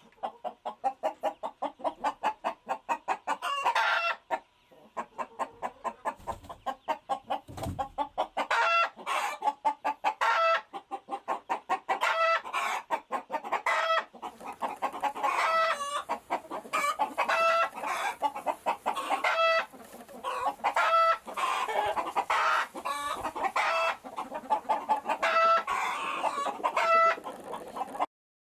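Chickens clucking in quick runs, with repeated pitched calls and crowing from a rooster over them; the sound cuts off just before the end.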